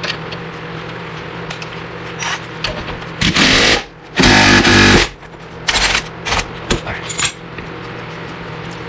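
Impact wrench hammering in two runs of about half a second to a second near the middle, then several short blips, driving a press tool to separate a suspension ball joint. A steady low hum runs underneath.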